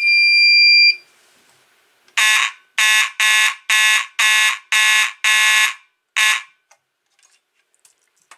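Simplex 2901-9838 fire alarm horn sounding in march-time coding: about nine short, buzzy blasts in quick even rhythm, then stopping. A steady high beep lasts about a second just before the blasts.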